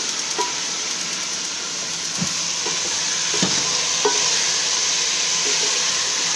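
Chicken pieces sizzling as they fry in oil in a pot. A spatula scrapes and knocks against the pot a few times as the chicken is stirred.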